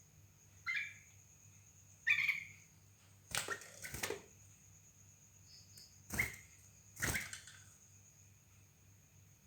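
Yellow-vented bulbuls in a hanging cage giving short, scattered chirps, about six in all. Several of the later chirps come with sharp clicks or knocks.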